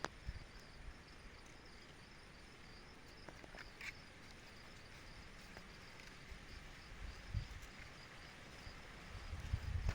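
Insects chirping in a steady, fine, high-pitched pulsing trill. There are a few small clicks about a third of the way in and some low thumps near the end.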